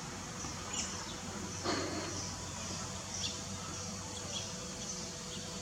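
Steady hum of a running computer, with faint short bird chirps repeating outside and a brief soft whoosh a little under two seconds in.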